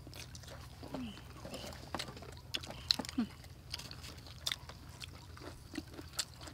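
People biting and chewing fried chicken legs in chili sauce, with scattered short wet clicks and smacks of eating. There are a couple of brief murmurs from the eaters, about a second in and about three seconds in.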